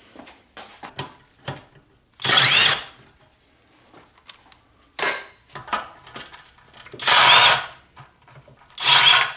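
Cordless drill-driver run in four short bursts, its motor whine rising and falling each time, as it backs out the fasteners holding the carburetor and air cleaner on a small engine. Light clatter of parts between the bursts.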